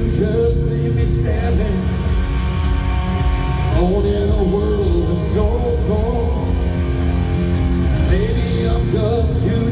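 Live rock band playing a cover song, with a lead vocal sung in phrases over electric guitar, bass and drums. There is a short break in the vocal midway.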